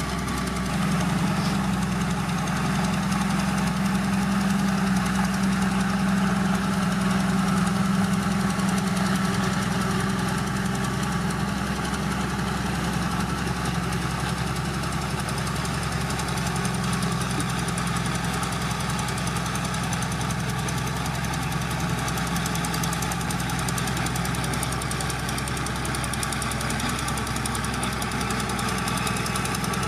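Heavy diesel engine of earthmoving machinery running steadily with a low, even drone. It grows a little louder about a second in, holds for several seconds, then settles back.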